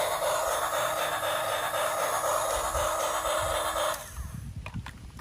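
Battery-powered toy steam train running: its small electric motor whirs steadily with a rapid repeating pulse, then stops abruptly about four seconds in, followed by a few light clicks.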